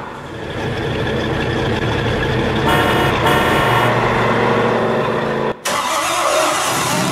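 Dubbed-in car engine running, with a horn sounding twice in quick succession about three seconds in. The sound cuts out sharply for an instant just after five seconds, then a different engine recording carries on.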